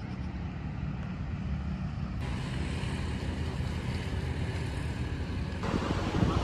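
Steady low rumble of a running train, with wind buffeting the microphone. The sound changes abruptly about two seconds in, then grows louder and gustier near the end.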